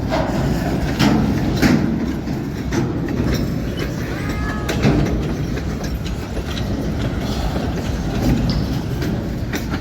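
Freight train cars rolling past: a steady rumble of steel wheels on the rails, broken by irregular clacks and knocks as the cars go over the track.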